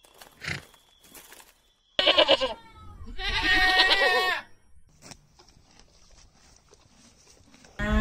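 A goat bleating twice: a short wavering bleat about two seconds in, then a longer, quavering one.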